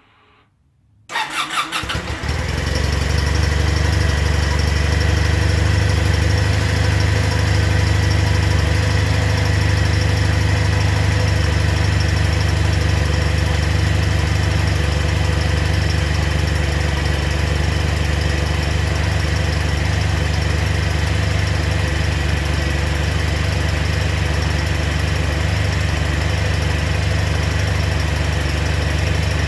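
Kawasaki W800's air-cooled parallel-twin engine cranked briefly by the starter about a second in, catching and settling into a steady idle: a cold start after months unused in winter.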